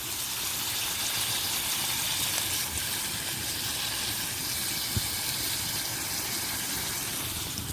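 Chicken sizzling steadily in hot oil in a pan, with one small pop about five seconds in.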